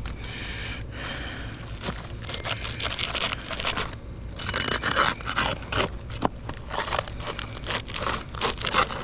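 A hand tool scraping and prying under a roof shingle to work a nail loose: quick, irregular rasping strokes that grow louder about halfway through.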